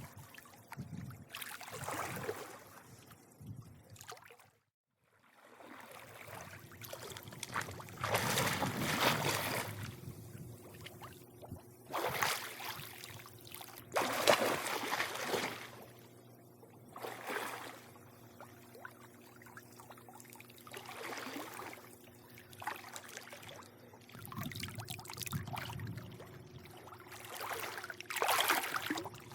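Pool water lapping and splashing in irregular surges, some louder than others. The sound drops out briefly about five seconds in.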